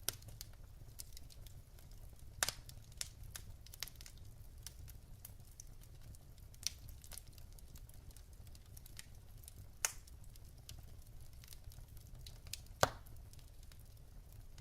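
Wood fire in a fireplace crackling: irregular small snaps from the burning logs over a steady low rumble of the flames, with a few louder pops about two and a half, ten and thirteen seconds in.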